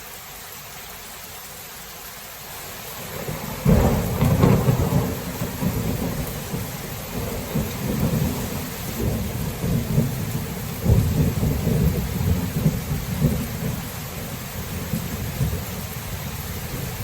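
Thunderstorm: steady rain hiss, then about three and a half seconds in a thunderclap breaks into a long, rolling rumble of thunder that swells and fades repeatedly while the rain keeps falling.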